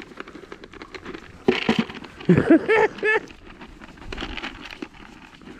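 A goat bleating, a loud wavering call that starts about a second and a half in and lasts under two seconds, amid clicking and rustling from feeding.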